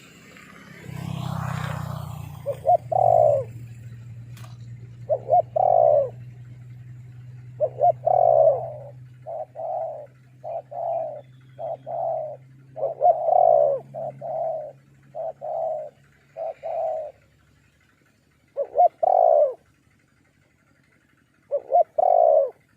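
Spotted doves cooing in repeated phrases, each a couple of short notes leading into a longer one. It is a decoy male and the wild dove it has drawn in calling back and forth. A steady low hum sits under the first two-thirds.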